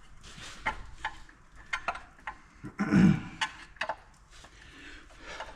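Scattered metal clicks, ticks and scrapes as a Minneapolis-Moline ZA crankshaft and its rear bearing cage are pried loose from the engine block, with one louder clunk about three seconds in.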